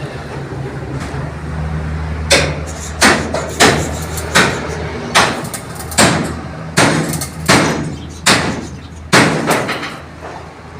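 A run of about ten sharp knocks, roughly one every three-quarters of a second, like hammering, over a steady low hum.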